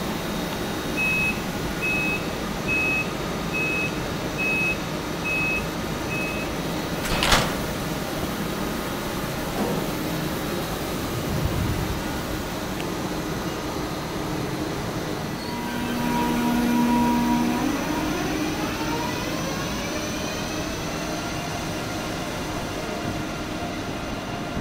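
Intercity-Express door warning: seven short high beeps about a second apart, then a door slamming shut. The train then pulls away: a brief steady hum, then the electric traction drive whining in several rising tones as it accelerates, over rolling rumble.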